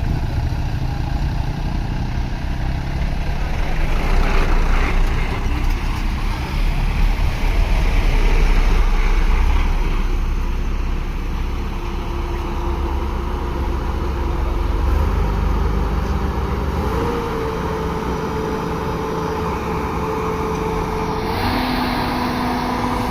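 Heavy truck's diesel engine running steadily, a deep continuous rumble.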